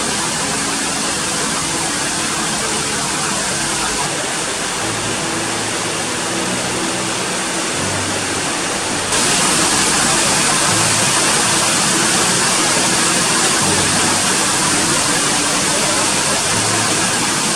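Heavy rain pouring down, a dense, steady hiss of water that gets louder and brighter about halfway through.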